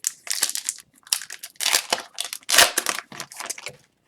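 Foil trading-card pack wrapper crinkling and being crumpled by hand in a run of irregular crackles, loudest about halfway through.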